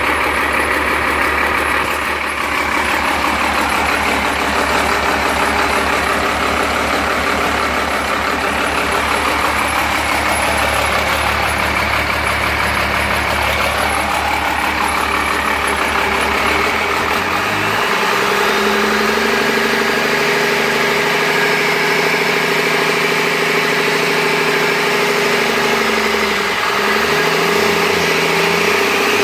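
Freshly rebuilt Cummins 12-valve 5.9-litre inline-six diesel running out of the truck after break-in. It runs steadily, then about two-thirds of the way through its note changes as it is brought down to idle, and it wavers briefly near the end.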